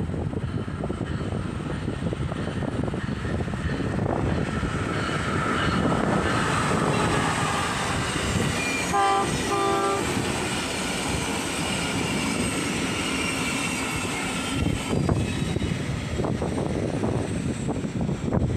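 A train passing close by with steady rumbling and clatter of the wheels on the track. About halfway through there are two short horn blasts in quick succession.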